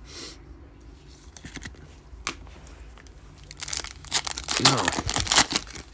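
Foil trading-card pack being torn open and crinkled, starting about three and a half seconds in and growing louder toward the end, after a single sharp click a little over two seconds in.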